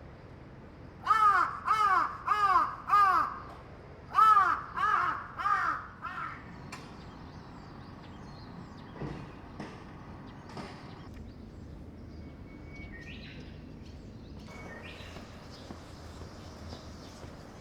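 A crow cawing: seven loud, harsh calls in two runs, four and then three, within the first six seconds, followed by quiet outdoor background.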